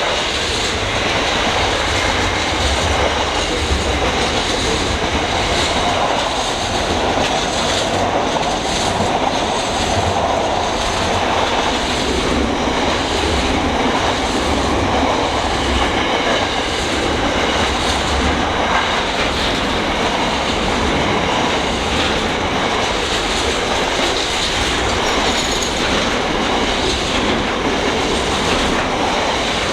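Freight train wagons rolling past at steady speed: a continuous rumble with wheels clacking over rail joints.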